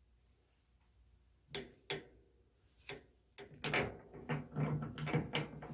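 Metal clicks and rattling as a small steel workpiece is set against the jaws of a lathe chuck and clamped. A few separate clicks come first, then a busier run of clicking and scraping from about three and a half seconds in.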